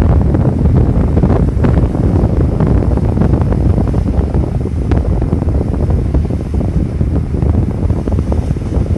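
Wind buffeting the microphone, loud and gusty, over a continuous low rumble.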